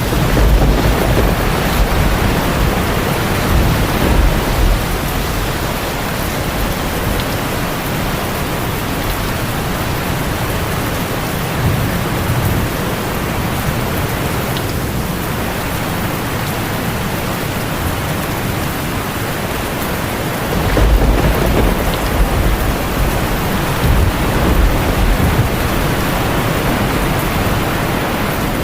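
Heavy rain drumming steadily on a tin roof, with rolling thunder rumbling low at the start and again about two-thirds of the way through.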